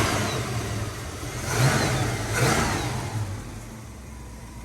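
Carbureted engine of a 1979 Chevrolet Caprice revved up three times in quick blips, then dropping back to a steady idle near the end. The owner calls it a good running motor.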